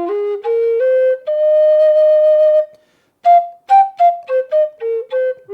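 Native American style flute played solo: a short rising run of notes leading into one long held note, then after a brief pause a quick run of short notes moving down.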